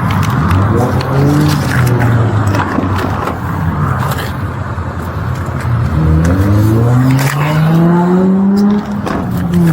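Car engines accelerating past on the street, their pitch rising as they rev up. A longer climb in pitch starts about six seconds in.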